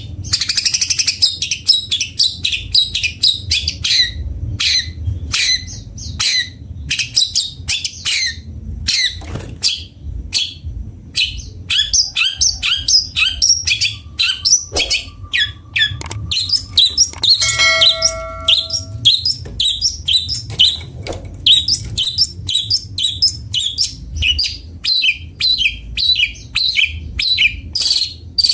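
Long-tailed shrike (cendet bondol) singing a fast, continuous chattering song of short high notes, with a brief run of steady whistled tones just past the middle.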